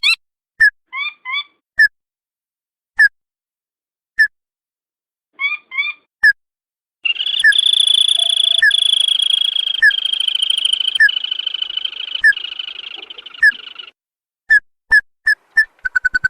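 Recorded ruddy-breasted crake calls of the kind played as a lure for wild crakes. Sharp single notes come about once a second, with a few quick two-note phrases. A long trill runs for about seven seconds, then more single notes and a fast run of repeated notes near the end.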